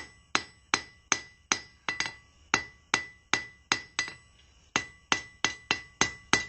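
Hand hammer striking hot steel on an anvil at a steady pace of about two and a half blows a second, with the anvil ringing between blows; a short pause about four seconds in.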